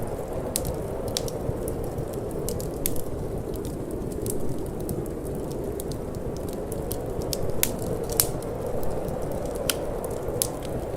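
Wood fire crackling, with frequent irregular sharp pops and snaps, a few louder than the rest, over a steady low rushing of wind.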